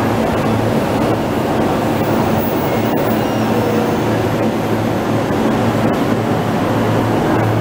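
Electric commuter train of the Keihin-Tohoku Line at a station platform: a steady rumble with a low hum running under it.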